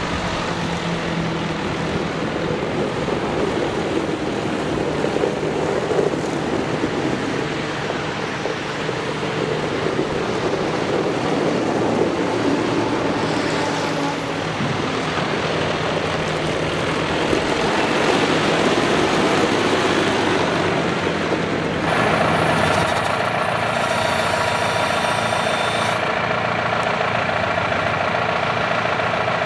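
John Deere 6110R tractor's four-cylinder turbo diesel running steadily. About two-thirds of the way through, a higher steady whine comes in over the engine and holds.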